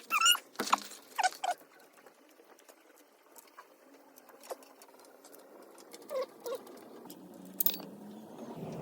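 A few short, squeaky chirps in the first second and a half and again about six seconds in, with scattered light clicks and ticks between and a sharp click near the end.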